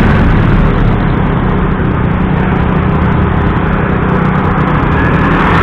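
A motorcycle riding in heavy road traffic: its engine runs steadily under constant wind and road noise, with the engines of the surrounding vehicles mixed in.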